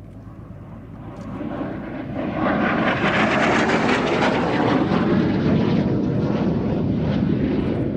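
Formation flypast of an F-86 Sabre jet and a DH.88 Comet piston-engined racer: aircraft engine noise that builds over the first two seconds or so to a loud, steady rush, easing a little near the end.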